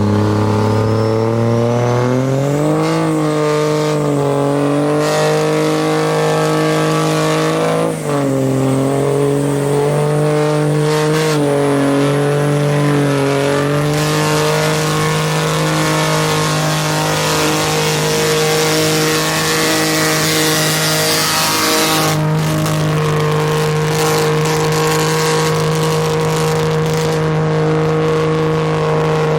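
Swapped-in second-generation Cummins 5.9 L inline-six diesel revving up and being held at high rpm, with a high whine climbing along with the revs and a brief dip about eight seconds in. A hiss of spinning tires joins in midway through a burnout.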